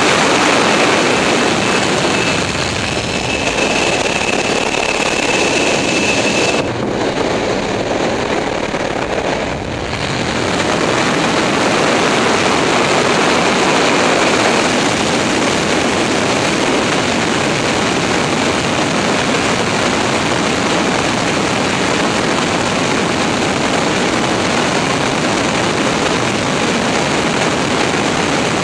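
Steady roar of rushing air and jet engines heard from inside a Boeing 747's landing gear bay, with a thin high whine over it for the first several seconds. The high part of the roar drops away briefly about a quarter of the way in, then returns and holds steady.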